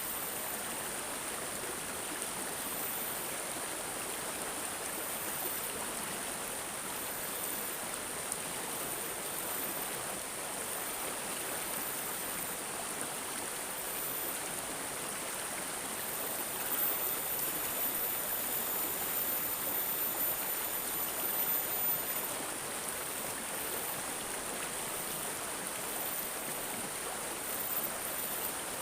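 A stream of water gurgling and babbling steadily.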